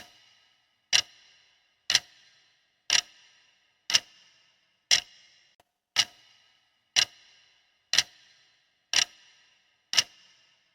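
Clock-like ticking, one sharp tick each second, each with a short bright ring that dies away before the next.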